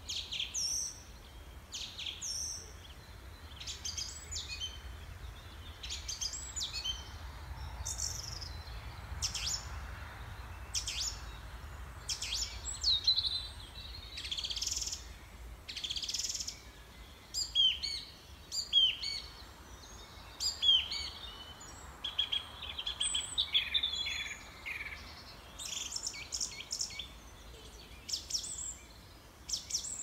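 Small birds chirping and singing, many short overlapping calls and quick whistled glides, over a faint low rumble.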